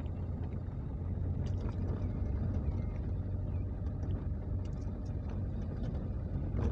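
Steady low drone of a car on the move, engine and road noise.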